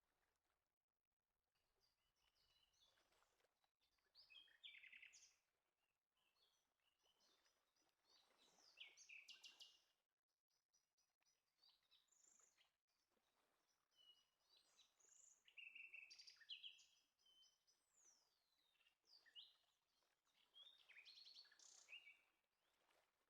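Faint birdsong: birds chirping and giving rapid trills on and off, with a downward-sliding whistle a little past the middle.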